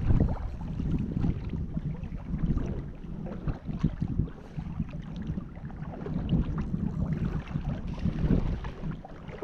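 Wind buffeting the microphone outdoors: an uneven low rumble, with a few faint scattered ticks.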